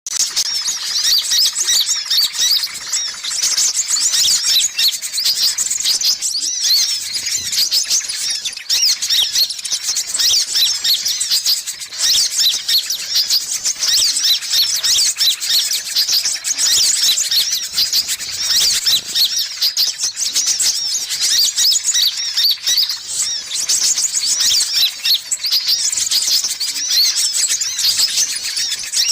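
Sunbirds (kolibri ninja and kolibri kelapa) calling in a bird-lure recording: dense, continuous high-pitched twittering and chirping, many quick calls overlapping without a break.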